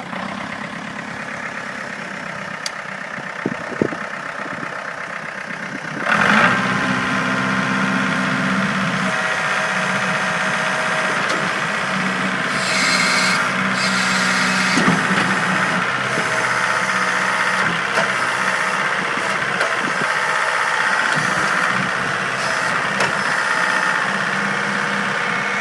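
Ford 1920 compact tractor's three-cylinder diesel engine running just after starting, first at a low idle; about six seconds in it speeds up and keeps running at the higher speed.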